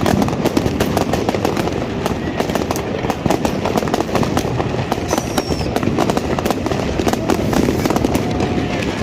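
Dense, continuous crackling and banging of many fireworks and firecrackers going off at once, with a few whistling rockets rising in pitch.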